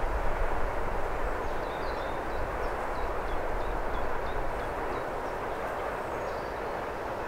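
A heavy freight train receding into the distance, the steady rumble of its wagons on the rails slowly fading. A small bird chirps rapidly over it, about three chirps a second, for a few seconds near the start.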